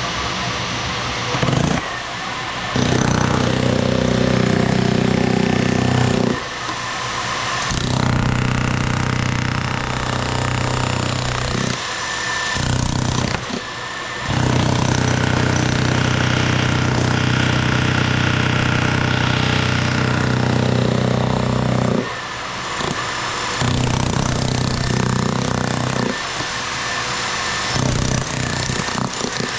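Electric jackhammer breaking up a concrete slab, running in bursts of about two to eight seconds with short pauses between them.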